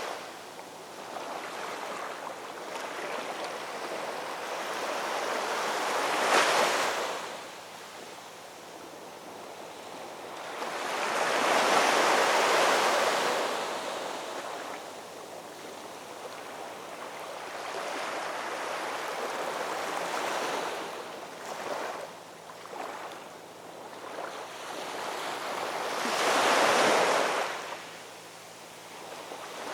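Ocean waves breaking on a shore, a steady rush of surf that swells and ebbs, with three louder breakers about six, twelve and twenty-six seconds in.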